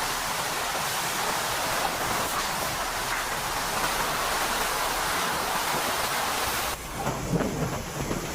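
Heavy rain falling in a steady hiss. About seven seconds in it cuts off abruptly, giving way to wind buffeting the microphone.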